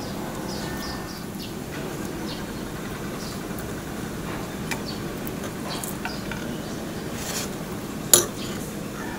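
Chewing and crunching on crispy fried pork knuckle skin and rice: scattered small crisp clicks over a steady low background hum, with one sharp click about eight seconds in.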